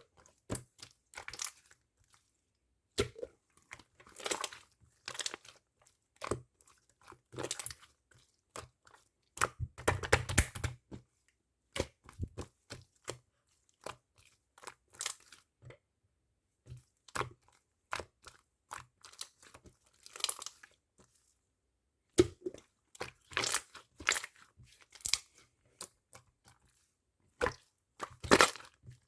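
Hands squeezing and stretching marbling slime, making irregular runs of crackling clicks and small pops, with short quiet pauses between handfuls.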